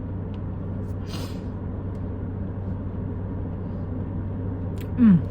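Steady low hum of a car running, heard inside the cabin. A brief rustle comes about a second in, and a short falling hum from a voice comes near the end.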